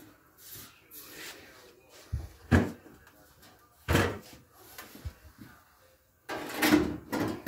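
Sharp knocks and clunks of tools and sheet-metal door parts being handled, four or so separate hits spread over the first five seconds, then a louder stretch of handling noise near the end.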